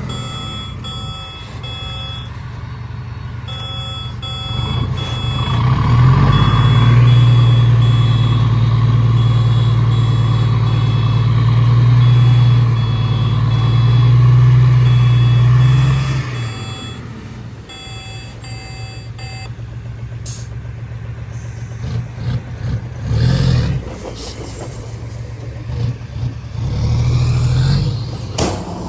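A reversing alarm beeps in a steady repeating pattern over a heavy diesel engine, which runs up under hard load for about ten seconds and then drops back. The beeping stops a little past halfway, and a few heavy thumps follow near the end.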